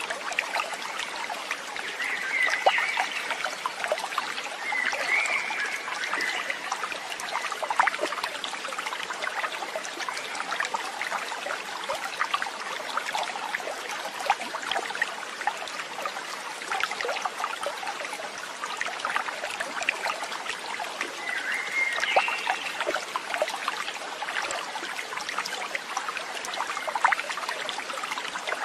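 Steady trickling stream, water running and splashing over stones. A few short chirps come through it: twice in the first few seconds and once more about two-thirds of the way through.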